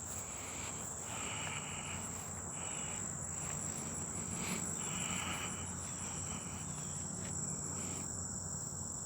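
Insects trilling in a steady, high-pitched chorus that doesn't break, with a second, lower-pitched call coming and going in short spells.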